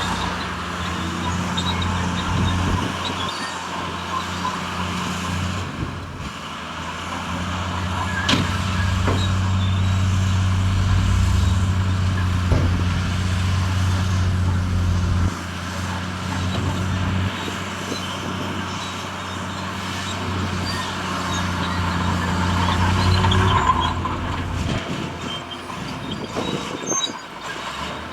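Heavy diesel earthmoving machinery running under work, a steady low engine drone that fades around three-quarters of the way through, with a couple of sharp metallic knocks in the middle.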